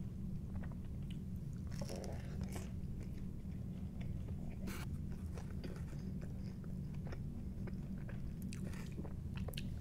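Close-miked chewing of Domino's pizza crust, with a few sharp crunching bites, most of them near the end, over a steady low hum.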